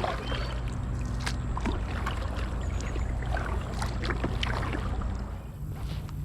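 Kayak paddling: the paddle blades dip and splash in the creek water in irregular strokes over a steady low rumble. The strokes ease off about five seconds in.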